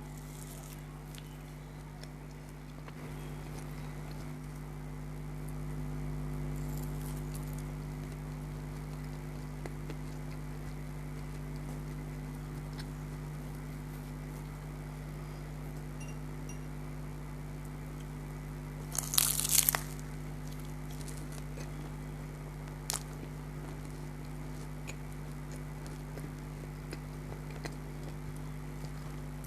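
Eating sounds: sparse small mouth clicks and one short burst of crunching from a bite of crispy food about two-thirds of the way through, over a steady low hum.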